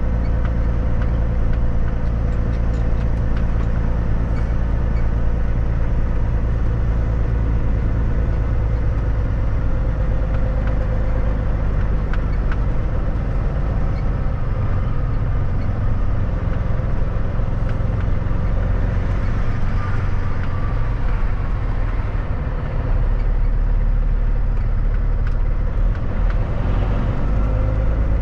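Kenworth W900 semi truck driving along: a steady, loud, low engine drone with road noise.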